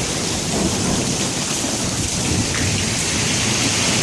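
Heavy rain pouring steadily, with a low rumble of thunder from a nearby lightning strike underneath it.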